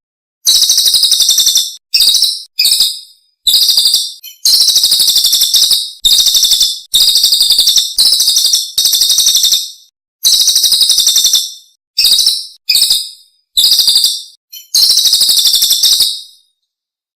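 A songbird's rapid, high chattering trill, repeated in about a dozen loud bursts of half a second to a second and a half, with dead silence cut between them: an edited birdsong 'masteran' track played to teach caged songbirds.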